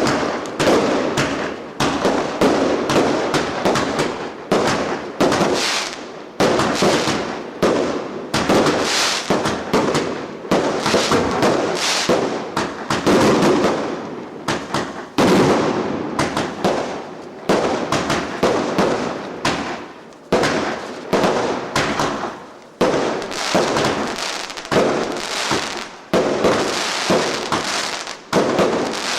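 Fireworks going off in a dense, continuous barrage: sharp bangs several times a second with crackling between them.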